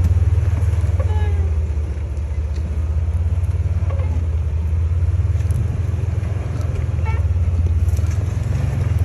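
Off-road rig's engine running at low revs with a steady low rumble while crawling slowly over rough ground, dipping slightly in level a couple of times.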